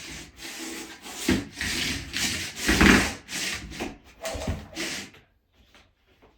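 Repeated back-and-forth rubbing strokes on a hard surface, somewhat under two a second, that stop about five seconds in.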